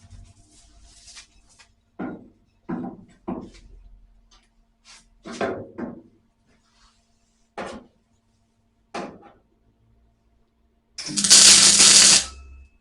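Sheet-steel repair panel knocked and clanked into place, about six separate knocks, then a loud burst of noise lasting about a second near the end as it is tack-welded on.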